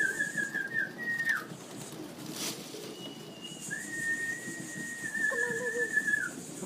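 Someone whistling a long, high, slightly warbling call tone to bring racing pigeons into the loft. There are two long whistles: the first ends with a quick drop in pitch just over a second in, and the second runs from about four to six seconds in.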